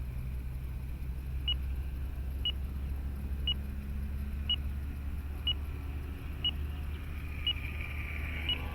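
A radio transmitter's flight timer beeps once a second, eight short high beeps, counting down the last seconds of the flight. Underneath is a steady low rumble and the faint whine of the RC plane's electric motor, slowly falling in pitch.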